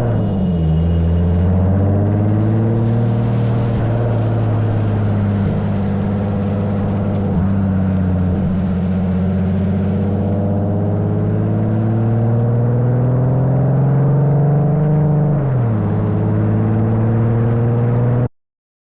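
Car engine running while driving, its note climbing slowly and dropping sharply twice, about half a second in and again near the end, as with gear changes. The sound cuts off abruptly just before the end.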